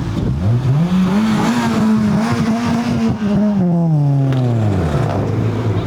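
Car engine accelerating hard: its note climbs steeply over about a second, holds high for about two seconds, then falls away and settles into a lower steady note near the end.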